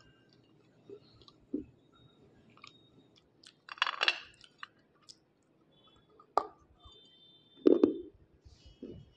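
Biting and chewing pieces of white unshaped slate pencil: three sharp crunching bites, about four, six and a half and eight seconds in, with quieter chewing between.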